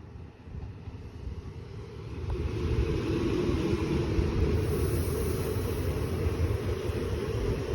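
TER regional train passing: a rumble that builds about two seconds in and then holds loud and steady, with a low hum running through it.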